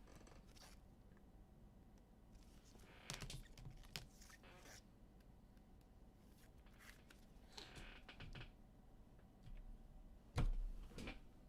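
Faint handling noises at a desk: scattered soft clicks and rustles in a few short clusters, with one sharper knock near the end.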